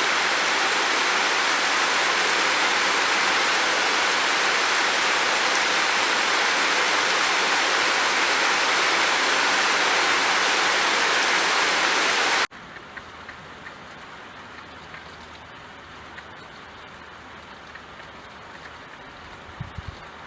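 Steady heavy rain, an even hiss that cuts off suddenly about twelve seconds in, leaving a much quieter hiss with faint ticks.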